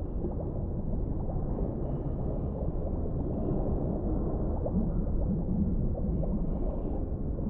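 Underwater ambience: a steady, muffled low rumble of water with faint gurgling and a few faint high tones drifting in and out.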